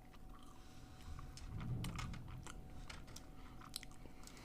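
A person chewing a mouthful of chocolate-dipped cheesecake, with faint crunches and small mouth clicks.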